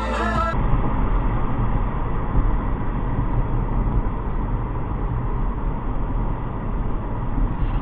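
Music cuts off about half a second in. After that comes a steady, muffled rumble of a moving vehicle: road and engine noise with no distinct impacts.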